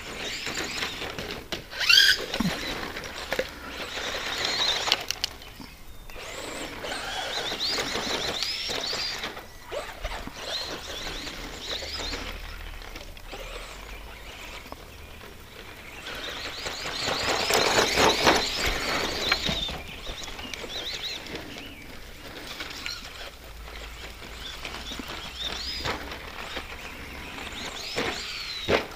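An ECX Circuit RC stadium truck running on a rough dirt track: the electric whine of its 15-turn brushed motor rises and falls with the throttle over the scrabble of tires on dirt. It is loudest in surges a couple of seconds in and again past the middle.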